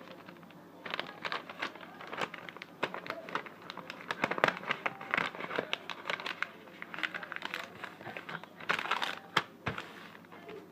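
Kite-making material crinkling and rustling as it is handled, folded and pressed, in irregular crackles with a couple of louder bursts.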